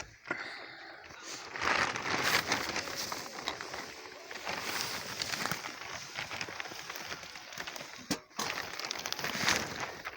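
Irregular crinkling and crackling rustle, like dry paper or tinder being handled, broken by a short gap about eight seconds in.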